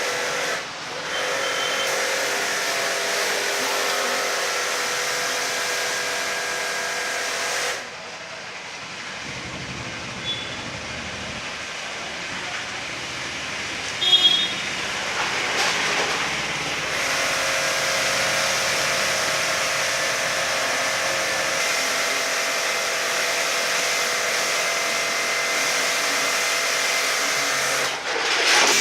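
Car-cleaning machine running with a steady hissing drone. It drops and dulls about eight seconds in, then comes back to full strength around sixteen seconds.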